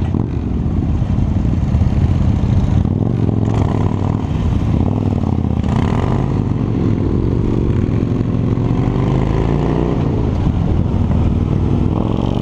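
Harley-Davidson motorcycle's V-twin engine running under way, its pitch rising and falling with the throttle and climbing in the last few seconds, over steady wind and road noise.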